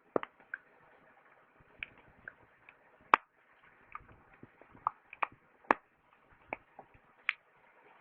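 Firewood crackling and popping in a campfire: irregular sharp pops, a dozen or so loud ones, over a faint steady hiss of the fire.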